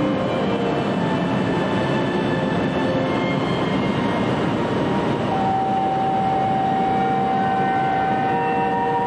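Shinkansen train standing at the platform, its equipment giving a steady dense hum under the station's echo. About five seconds in, a steady high tone sets in and holds.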